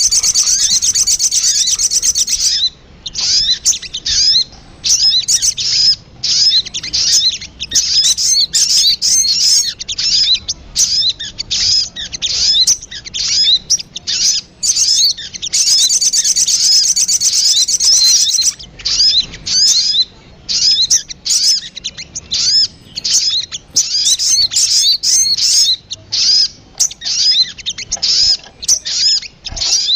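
Recorded sogon (little spiderhunter) calls played as a bird lure: rapid series of high, sharp chirps, broken by two longer dense trills, one at the start and one about halfway through.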